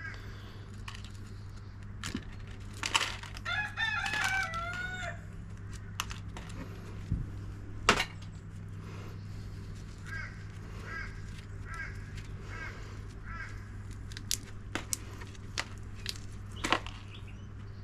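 A rooster crows once, a warbling call of under two seconds, about three seconds in, and a run of about six short calls follows later. Sharp clicks and knocks from prying apart transformer parts break in now and then, the loudest about eight seconds in and near the end.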